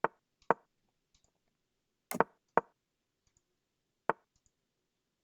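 Online chess move sounds: sharp piece-placement clicks as moves are played, five in all at uneven spacing, one doubled about two seconds in.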